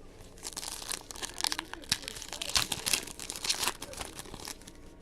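Crinkling and tearing of a trading-card pack's plastic wrapper as it is opened and handled, a dense run of crackles that stops about 4.5 seconds in.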